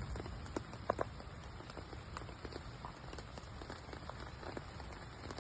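Irregular light ticks and taps over a soft steady hiss, with a couple of louder taps about a second in.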